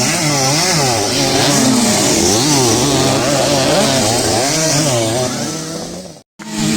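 Two-stroke motocross bike engines revving hard, their pitch rising and falling rapidly and repeatedly as the riders work the throttle around the dirt track. The sound breaks off suddenly for a moment about six seconds in.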